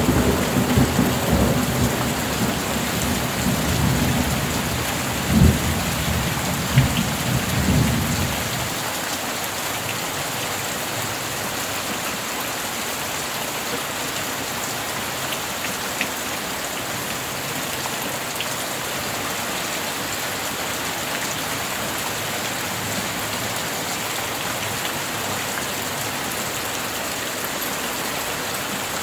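Steady heavy rain with rolling thunder rumbling through the first eight seconds, with two sharper claps about five and a half and seven seconds in. The thunder then cuts off abruptly, leaving only the even hiss of the rain.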